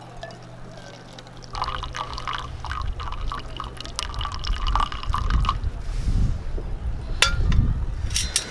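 Liquid pouring into a container for a few seconds, with a steady ringing tone and small splashing ticks, over a low rumble. Two sharp knocks near the end.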